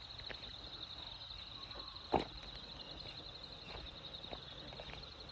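Steady high-pitched insect trill, with faint footsteps on a bush path and one sharp click about two seconds in.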